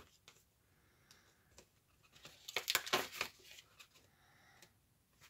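Paper rustling and scraping as a paper tag is slid sideways into an envelope pocket, with a short burst of crisp scrapes about halfway through.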